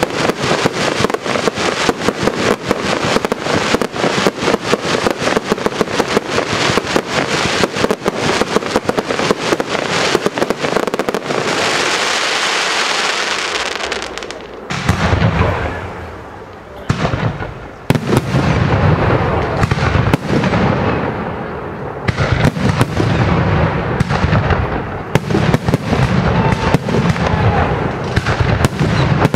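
A fireworks display. A fast, dense run of crackling pops fills the first eleven seconds or so, then a steady hiss for a few seconds. After a brief lull, a sharp bang comes about eighteen seconds in, followed by sparser cracks and deeper booms.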